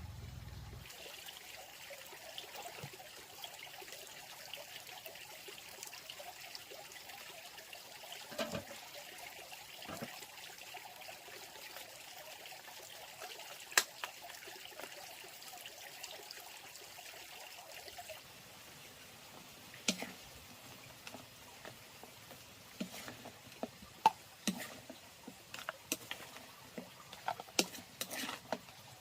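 Water trickling steadily, with scattered sharp clicks and knocks that come more often in the last ten seconds.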